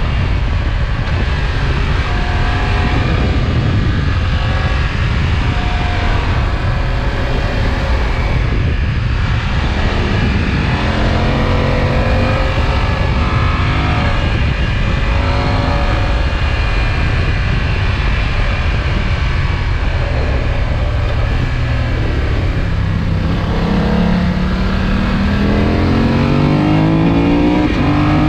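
BMW F900XR's parallel-twin engine and exhaust heard while riding, over a heavy low rumble. The engine note climbs about ten seconds in, then climbs again more steeply over the last five seconds as the bike accelerates.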